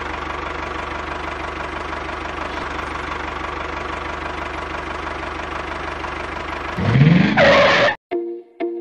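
Small engine running steadily. Near the end a loud rising whoosh cuts in, the sound stops abruptly, and plucked music notes begin.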